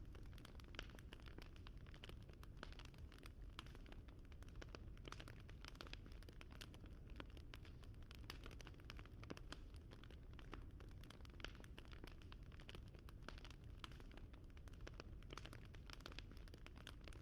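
Wood fire crackling: a dense, irregular scatter of small sharp pops and snaps over a steady low rumble.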